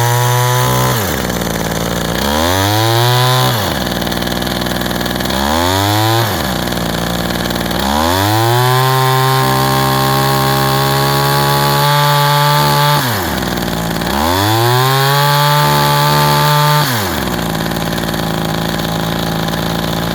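Kawasaki KT12 hedge trimmer's small two-stroke engine, just started from cold, being revved repeatedly: the revs climb and drop back to idle four times, one rev held high for about five seconds, then it settles to a steady idle near the end.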